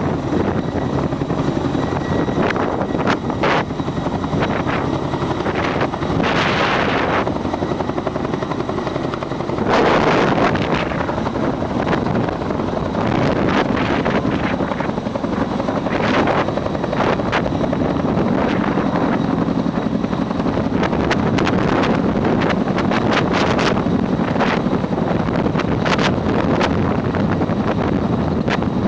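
Helicopter running steadily, the even drone of its rotor and engine, with gusts of strong wind buffeting the microphone; one gust about ten seconds in is the loudest.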